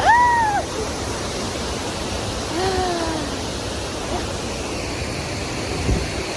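Steady rush of a waterfall and river. Over it, a short rising-then-falling vocal sound at the very start and a lower falling one about three seconds in.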